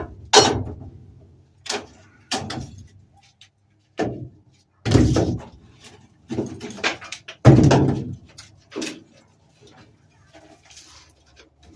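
Irregular knocks and bangs, about a dozen, each dying away quickly, with the loudest about five and seven and a half seconds in.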